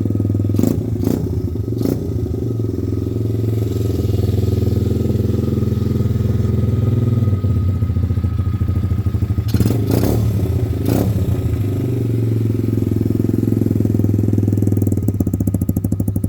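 MRacing MR30 110cc pit bike's four-stroke single-cylinder engine running at a steady idle after being started. A few sharp clicks sound over it, near the start and again about ten seconds in.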